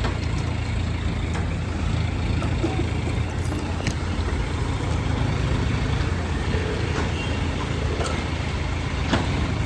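Steady low rumble of road vehicles and running engines, with a few faint clicks.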